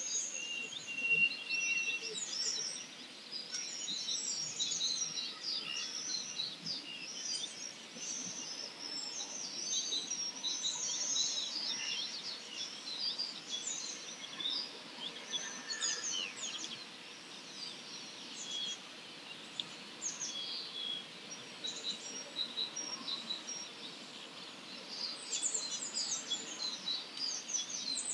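Early-morning chorus of wild songbirds: many birds at once, giving dense, overlapping high chirps, trills and quick sweeping notes, with a brief held whistle about a second in.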